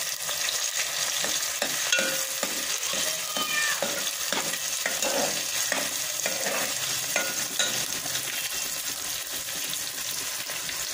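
Onion paste sizzling as it fries in hot oil in a metal pot. A metal ladle stirs it, scraping and knocking against the pot again and again, mostly in the first several seconds.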